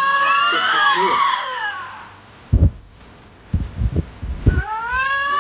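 Two lynxes yowling at each other. A long, wavering, screaming call rises and falls over about two seconds, a few low thumps follow, and a second rising yowl begins near the end.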